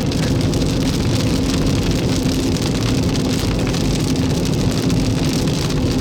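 Steady road and engine noise of a Jeep driving, with rain striking the vehicle.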